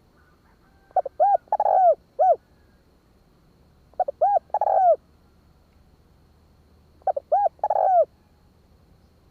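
Spotted dove cooing: three phrases about three seconds apart, each a quick run of short, arched coos with one longer drawn-out coo.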